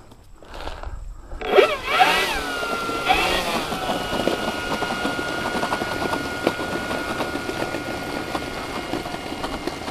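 Electric motor and propeller of an E-flite 1.5 m P-51D Mustang RC plane: about a second and a half in, the whine sweeps up and down a couple of times as the throttle is worked, then holds a steady high whine for several seconds before dropping away near the end.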